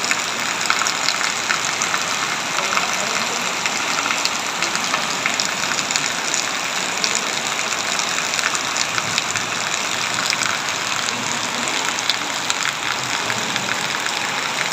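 Heavy rain falling steadily, with many single drops ticking as they strike a hard surface.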